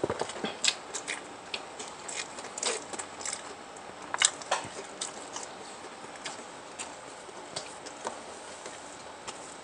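Close-miked eating sounds: irregular clicks and smacks of chewing, loudest a little over four seconds in.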